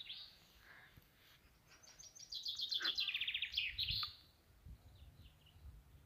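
A songbird singing a fast trill of repeated high notes, starting about two seconds in and lasting about two seconds, with a few fainter chirps around it.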